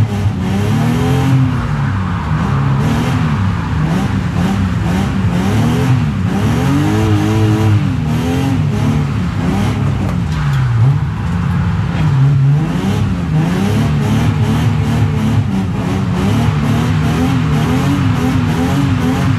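BMW E36 328i's inline-six engine heard from inside the cabin, revving up and down over and over as the car is driven hard on track. Its revs settle into a steadier, higher run near the end.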